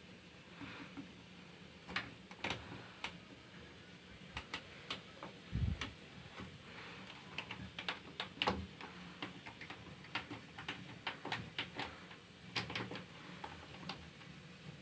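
Irregular small clicks and taps, some in quick clusters, over a faint steady hum, with one dull low thump about five and a half seconds in.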